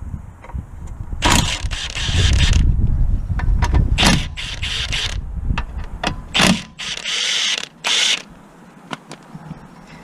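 Mechanic's tools working on a car: several separate bursts of mechanical tool noise, with a low rumble underneath from about two seconds in until past the middle.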